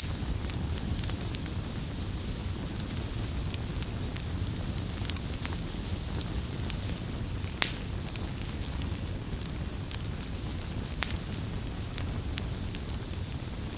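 Wood campfire crackling: many small sharp pops and snaps, with a few louder pops about halfway through and near the end, over a steady low rush of burning.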